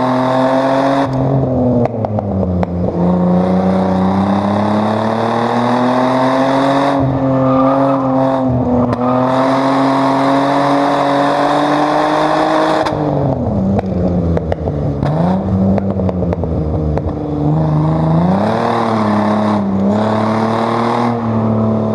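Chevrolet Omega 3.0 straight-six engine driven hard on track. It pulls long and rising for about ten seconds, drops sharply when the throttle is lifted, then dips and climbs again through the next corners.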